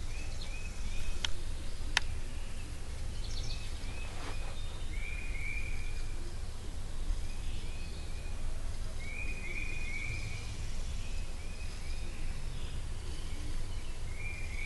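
A bird calling in short chirps, in little groups of two or three every few seconds, over a steady low rumble of wind-like background noise. Two sharp clicks sound about one and two seconds in.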